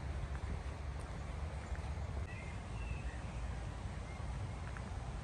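A few faint bird calls, a couple of seconds in and again near the end, over a steady low rumble.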